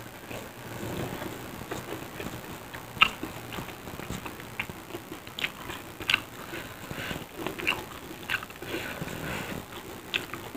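Close-up chewing of crispy fried tempe mendoan (battered tempeh fritters), with irregular short crunches and wet mouth sounds.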